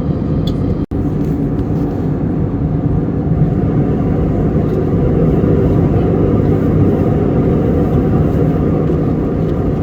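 Steady cabin noise aboard an Airbus A321neo airliner: an even, low rumble of engines and airflow, which drops out for an instant about a second in.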